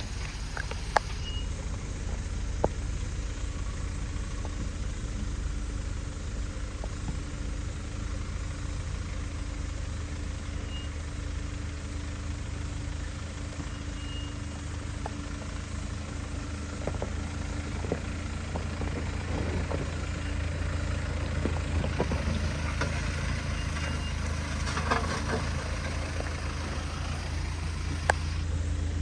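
Off-road vehicle's engine running low and steady while crawling over rough ground, with a few sharp knocks and some scraping and crackling partway through.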